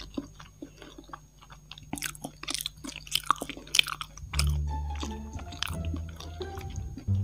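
Close-up chewing of takoyaki, with a run of sharp mouth clicks and smacks in the middle. Background music plays underneath and grows louder about four seconds in.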